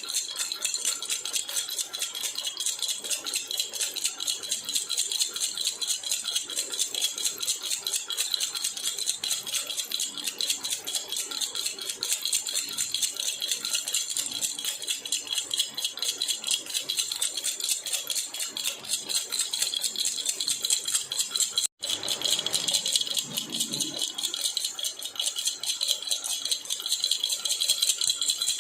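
Jhunjhuna baby rattle shaken continuously in a fast, steady jingle. It cuts out for an instant about three-quarters of the way through.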